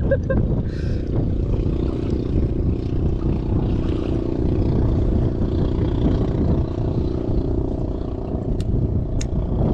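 A boat's engine running steadily, under wind and sea noise. Two short sharp clicks near the end.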